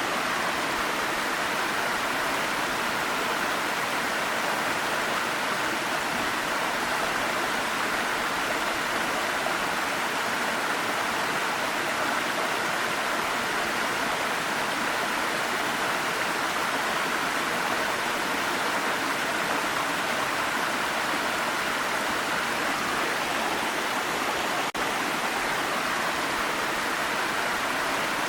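Waterfall: a steady, even rush of falling water that dips for a moment once, late on.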